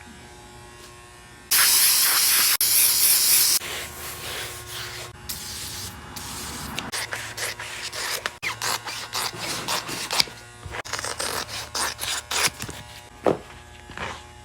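Spray adhesive hissing in one loud burst of about two seconds, then a run of short hisses and rustles, as foam is glued onto the back of a captain's chair. A faint steady hum runs underneath.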